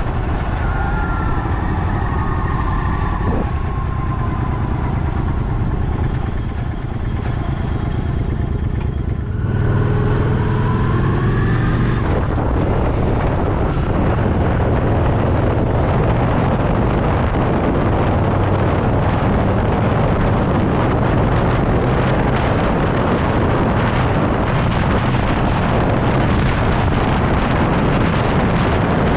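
Motorcycle engine running on the road, with wind rushing over the microphone. The engine note falls in the first few seconds, then rises as it accelerates about ten seconds in, after which a steady wind rush over the engine fills the rest.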